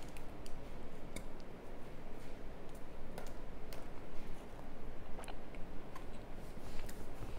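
Close-up chewing of hard oven-baked cornstarch chunks, with a sharp crunch every second or so over a steady soft chewing.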